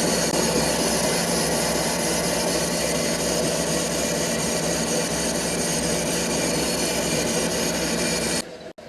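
Metalworking machinery running steadily, a constant hum under a high grinding, rubbing hiss, which cuts off suddenly near the end.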